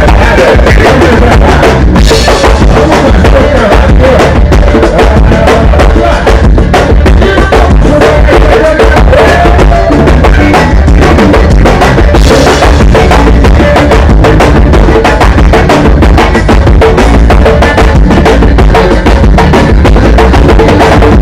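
Live band music at soundcheck, loud, with the drum kit to the fore: kick drum, snare and cymbal hits in a steady rhythm over other instruments.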